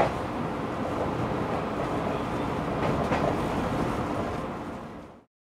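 Train running, heard from inside the driver's cab: a steady rumble with wheels clacking over rail joints, a couple of clacks about three seconds in. The sound fades out near the end.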